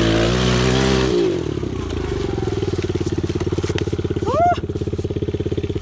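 Pit bike engine running on the throttle, then dropping off about a second in and settling into a steady, even idle.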